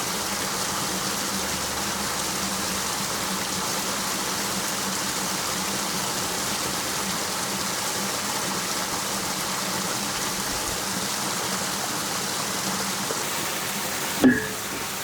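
Steady rush of water through a small microhydro turbine, with a constant low hum underneath. One sharp metallic knock with a brief ring comes near the end.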